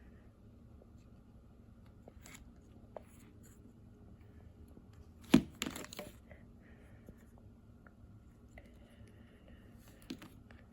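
Small plastic kit parts and a rubber band being handled and fitted together: faint scattered clicks and rustles, with one sharp click about halfway through followed by a brief rustle.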